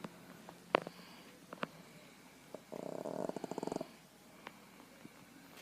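Boston terrier snoring while asleep: one rattling snore lasting about a second in the middle, with a few faint clicks between breaths.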